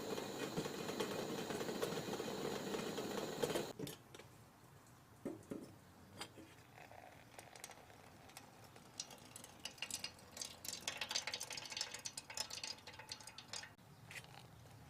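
A steady hiss that cuts off suddenly about four seconds in. Then light, scattered taps of raindrops dripping, growing thicker for a few seconds near the end.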